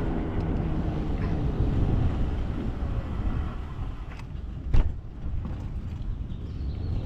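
Road vehicle noise, a steady low rumble and hiss, with one sharp knock about five seconds in.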